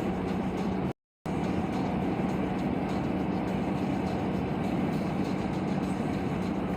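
Steady road and engine noise of a car driving at highway speed, heard from inside the cabin, with a low steady hum. The sound cuts out completely for a moment about a second in.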